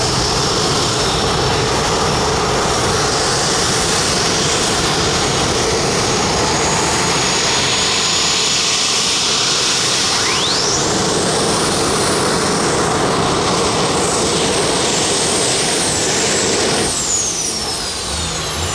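A modified pulling tractor runs under full power down the track, loud and steady, with a high whine that climbs sharply about halfway through and holds. Near the end the driver lets off early, about 125 feet out, because something wasn't going right. The noise drops and the whine falls away as the engines wind down.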